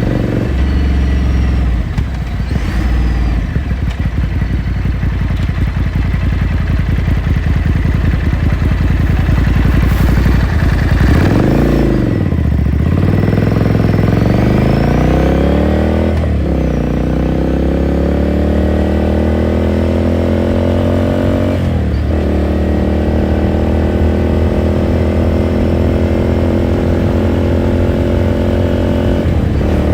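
2018 Ducati Scrambler Sixty2's air-cooled L-twin running under way through its raw exhaust, heard onboard. The engine note holds steady, drops and climbs again about ten seconds in, then rises through two gear changes, about sixteen and twenty-two seconds in, before settling into a steady cruise.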